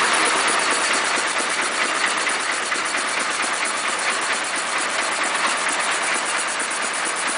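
Air compressor powered by a Rover 2.25 diesel engine ticking over at a few hundred rpm, with a steady, even clatter. The compressor is running unloaded, air going in and out under no pressure, to cool down after hours of work.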